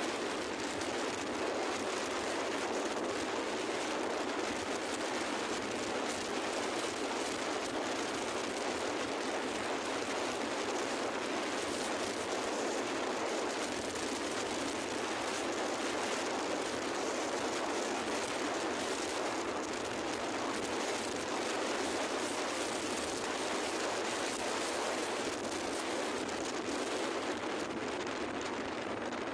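Steady rushing noise of a small boat underway at sea, wind and water mixed with the engine, with no change in pace throughout.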